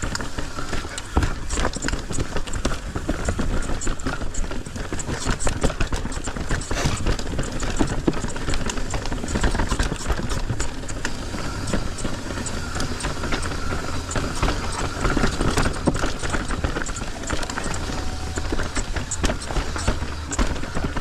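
Mountain bike riding down a rough, dusty trail: tyres rolling over dirt and rocks, with constant chain and frame clatter and many small knocks, over a steady low rumble of wind on the microphone.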